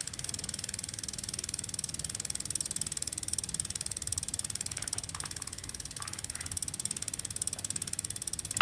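A mechanism clicking rapidly and evenly in a long, unbroken run, with the clicks crisp and bright.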